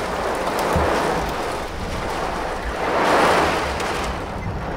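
Storm wind and heavy rain beating on a car, heard from inside: a steady rushing noise that swells in a gust about three seconds in.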